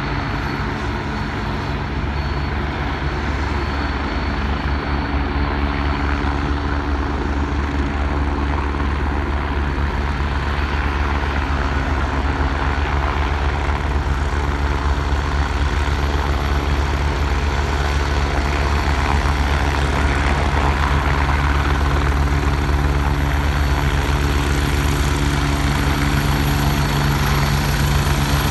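Police helicopter flying, a steady low drone with several held tones over a broad rush of noise, growing gradually louder.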